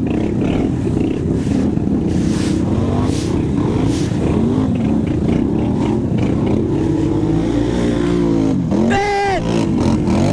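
Race quad (ATV) engine running hard, its pitch rising and falling over and over as the throttle is worked through the course.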